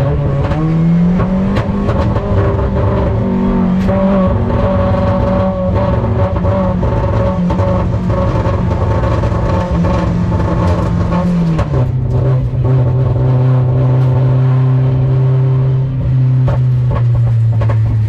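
Mazda Miata race car's four-cylinder engine heard from inside the car, pulling at steady high revs, then dropping suddenly to lower steady revs about two-thirds of the way through.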